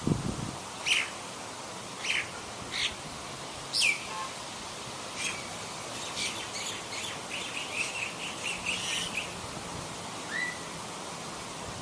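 Small birds chirping: a few short, separate chirps about a second apart, then a quick run of chirps about two-thirds of the way in and one slurred note near the end.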